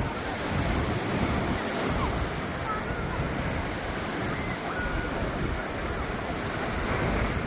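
Ocean surf washing onto the beach in a continuous, rolling wash of breaking waves, with wind rumbling on the microphone.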